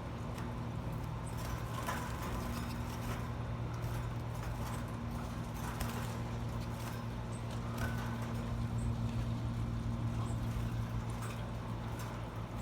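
Steady low hum throughout, with scattered light taps and clicks over it.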